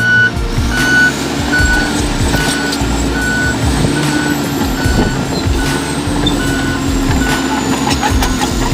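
Heavy diesel earthmoving machine running steadily while its reversing alarm beeps at a regular pace, about one short beep a second, with scattered knocks and clanks from the work.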